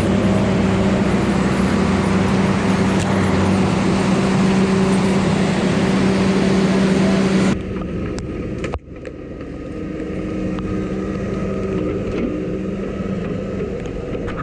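Diesel engine of heavy logging equipment running steadily and loudly close by. About seven and a half seconds in it cuts abruptly to a quieter, steady engine drone.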